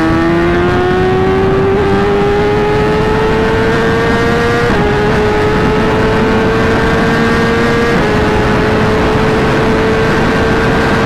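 Inline-four sportbike engine heard from on board, pulling steadily with its pitch climbing slowly and dropping briefly twice, about five and eight seconds in, at gear changes. Heavy wind rush runs over it.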